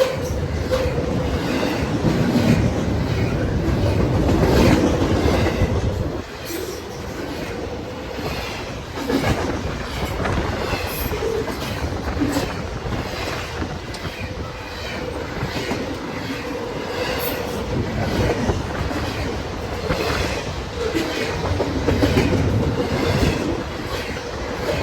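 Freight train rolling past, its wheels clicking over the rail joints under a steady rumble.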